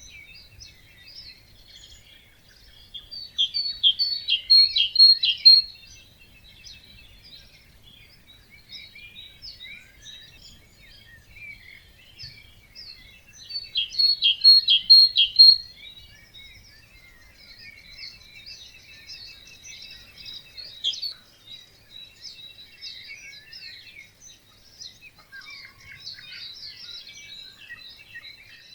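A chorus of many songbirds singing together. One nearby bird stands out, twice singing a loud phrase of rapid repeated notes, about ten seconds apart.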